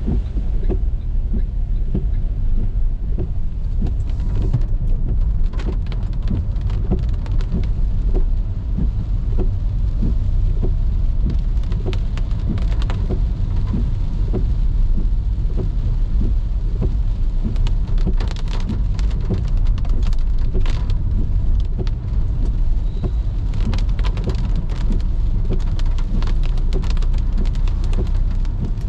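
Rain pattering and ticking on a car as it drives, over a steady low rumble of the car on the wet road.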